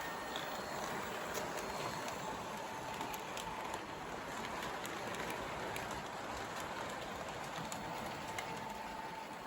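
O gauge model train running along the track: the locomotive's motor whirring steadily under the load of a long, heavy train, with a faint whine that comes and goes and scattered light clicks from the wheels on the track.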